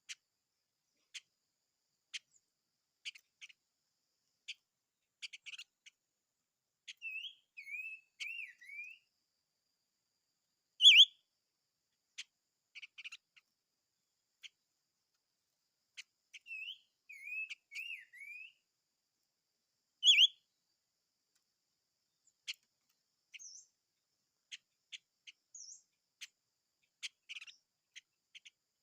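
A small bird sings and calls: scattered short chips and ticks, two warbled phrases about 7 and 17 seconds in, and two loud, sharp calls about 11 and 20 seconds in, which are the loudest sounds.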